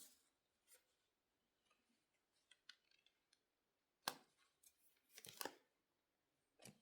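Tarot cards being handled in near silence: a few faint ticks, a sharp card snap about four seconds in, and a brief rustle of cards about a second later.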